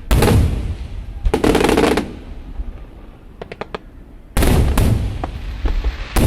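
Fireworks going off: several loud bangs with rapid crackling, each trailing off, and a quick run of small pops about halfway through.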